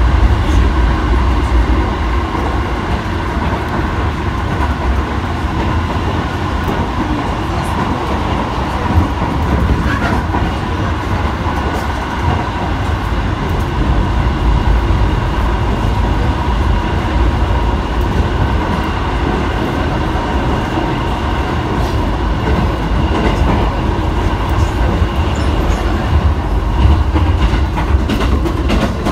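Electric passenger train running at speed, heard from inside the carriage: a steady low rumble of wheels on the rails with a steady high tone running through it.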